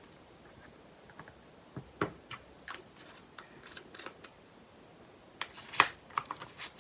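Light plastic clicks and taps of small craft items being handled: diamond-painting drill bags and storage pots, with a sharper click about two-thirds of the way through and a quick run of ticks near the end.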